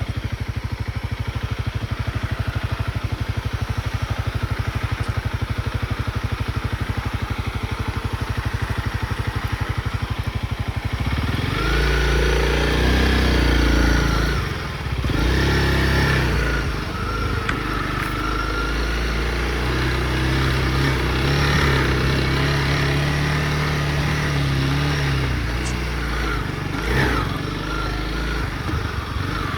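Honda CRF motorcycle engine running with a steady, even beat, then louder from about eleven seconds in, its pitch rising and falling as the throttle changes.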